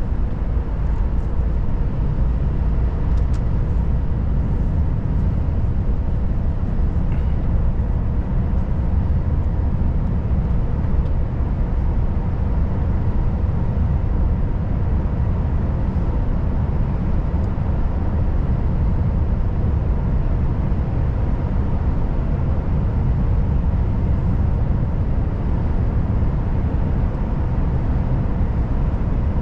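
Volvo FH540 truck's 13-litre straight-six diesel running steadily under way, a constant low rumble mixed with road noise, with faint steady tones above it.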